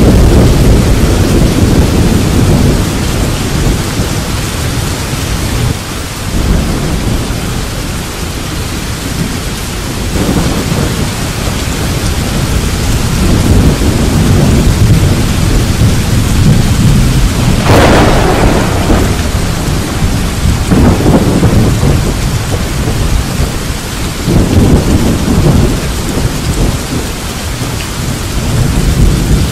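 Thunder rumbling in repeated swells over steady rain, with one sharper, brighter clap about two-thirds of the way through.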